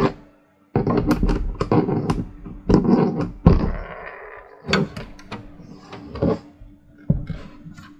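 Screws being driven into the motherboard standoffs of a metal computer case: rattling and clicking of the screwdriver, screw and case for the first few seconds, then a few separate sharp clicks and knocks.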